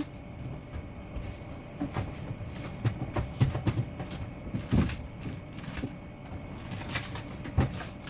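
Irregular knocks, clicks and light clatter of household objects being handled and set down, with the loudest knocks a little under five seconds in and again near the end.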